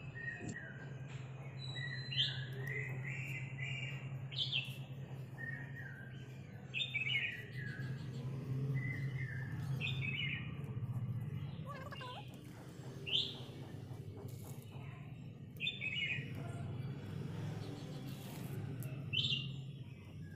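Small birds chirping, short high sweeping calls every second or two, over a low steady hum. A few faint clicks come from scissors snipping plant stems.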